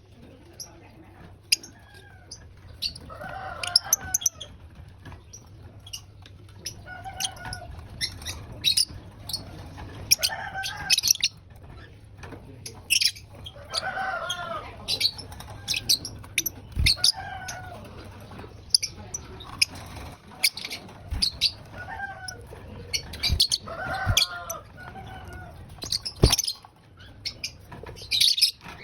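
Lovebirds chirping in short, sharp, high calls over and over, mixed with lower, drawn-out bird calls every couple of seconds and a few sharp knocks.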